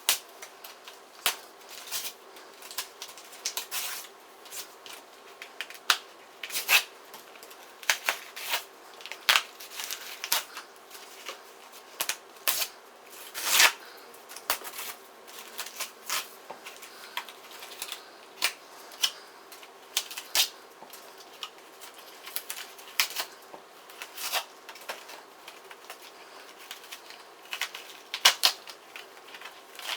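A Filtrete furnace filter being pulled apart by hand, its cardboard frame and pleated filter media tearing and crinkling in irregular crackles and snaps.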